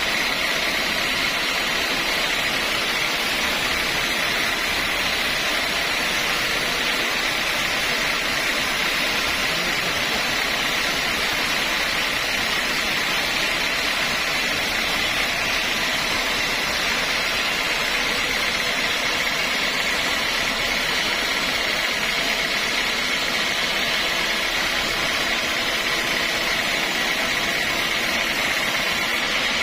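Sawmill machinery running steadily, a continuous even mechanical din with a strong high hiss.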